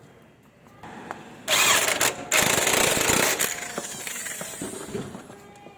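Pneumatic impact wrench hammering on a suspension nut or bolt in two loud bursts, a short one and then a longer one, followed by a quieter tail.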